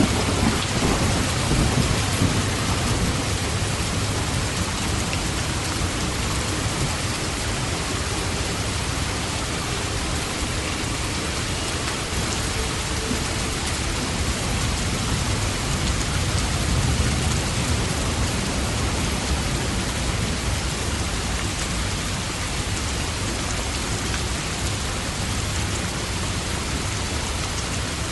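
Steady heavy rain falling, with low rolling rumbles of thunder that swell near the start and again about two-thirds of the way through.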